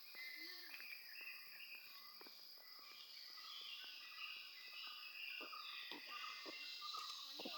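Faint outdoor chorus of insects making a steady high buzz, with several birds chirping and whistling short notes over it.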